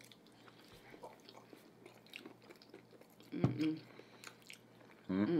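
Close-miked chewing of a mouthful of hard-boiled egg with peanut butter: faint, sticky wet mouth clicks and smacks. A brief louder sound comes about three and a half seconds in, and a voice starts up just at the end.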